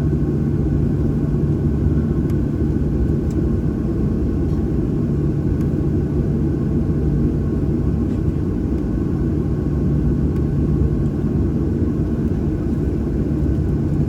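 Steady low drone inside the cabin of a Boeing 737-800, its CFM56-7B jet engines running at a steady setting, with a constant low hum and a few faint ticks.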